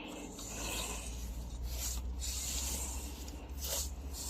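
Irregular scraping and rubbing in a pot of hot melted candle wax as the soaking material is stirred and turned over.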